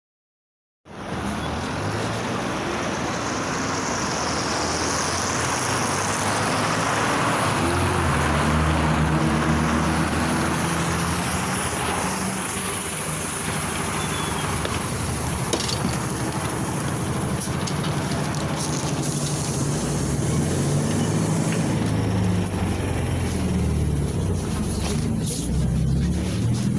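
PAZ 320402-05 city bus under way: its engine running steadily with road and tyre noise, the engine's pitch rising and falling several times as the bus speeds up, shifts and slows.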